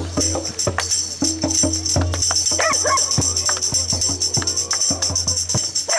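Tambourine jingles shaken in a fast, steady rhythm over a low steady hum, with scattered voices.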